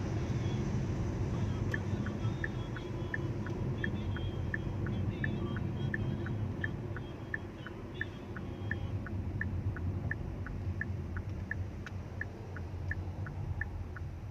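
Low rumble of city street traffic, with a steady series of short high beeps, about three a second, starting about two seconds in.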